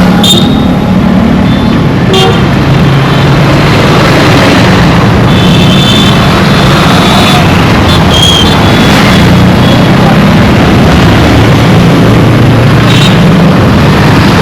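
Dense road traffic with engines running steadily, cut by short vehicle horn toots several times: near the start, about two seconds in, around the middle, and near the end.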